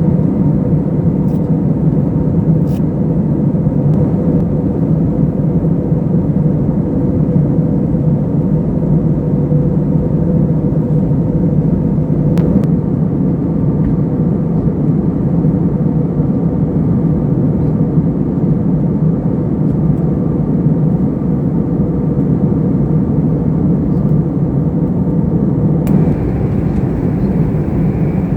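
Steady jet airliner cabin noise: the engines and airflow run as a constant low rush with a faint hum, and a faint higher tone joins near the end.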